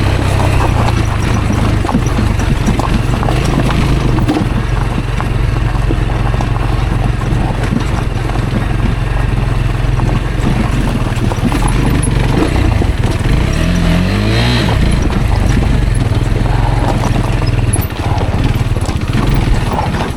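Rieju Aventura 125's single-cylinder engine running as the bike rides over rough dirt track, with knocks and rattles from the ground throughout. The engine revs up briefly about 14 seconds in.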